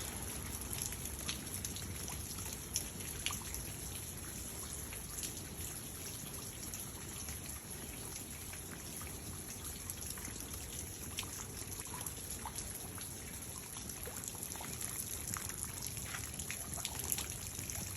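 Steady rain falling, with many scattered drops pattering and dripping, some close by.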